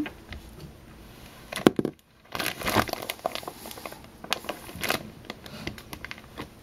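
Hands rummaging and handling small hard objects: rustling with scattered sharp clicks and knocks, busiest from about two and a half to five seconds in.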